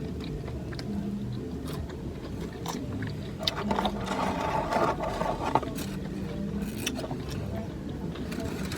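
Eating sounds: scattered clicks of chewing and handling food, with a louder stretch of rustling and crinkling about halfway through, over a steady low background hum.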